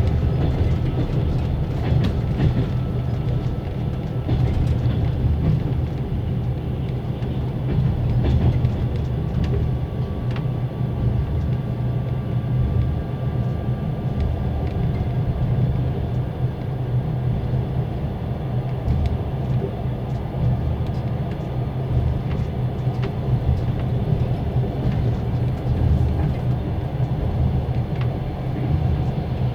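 Passenger sleeping car running on rails, heard inside a closed compartment: a steady low rumble from the wheels and bogies with occasional faint clicks over rail joints. A faint thin whine from the car's generator comes and goes over it.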